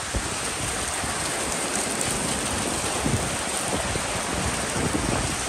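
Heavy rain falling steadily on a wet street: an even, unbroken hiss.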